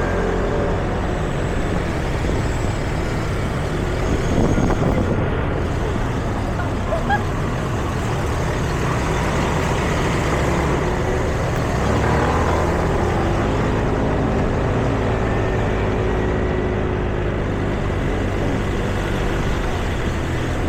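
Steady road traffic from passing motor vehicles, with a continuous engine hum and one vehicle passing louder about four seconds in.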